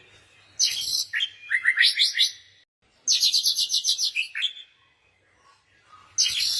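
Birds chirping: short bursts of high chirps, a run of quick rising notes, then a rapid trill lasting about a second around three seconds in, and another burst of chirps near the end.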